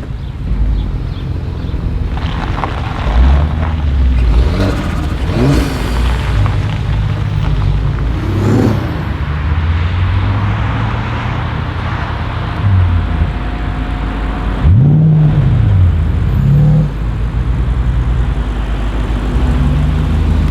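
Twin-turbo V8 of an Audi RS6 C7 Performance running through an Akrapovic exhaust, revving up and dropping back several times, with the sharpest rev about fifteen seconds in.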